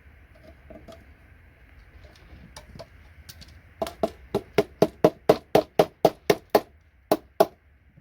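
A fast run of about fourteen sharp hammer blows, about four a second with a short break before the last two, knocking gold-pinned connectors off a computer circuit board. Lighter clicks and taps come before it.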